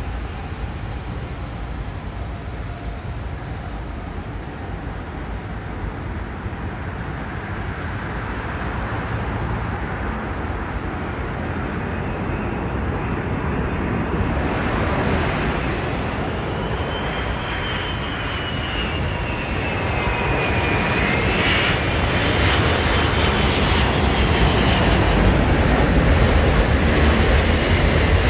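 Airbus A380 airliner on landing approach, the rumble of its four jet engines growing steadily louder as it comes closer. A high engine whine drops in pitch around the middle, and another rises near the end.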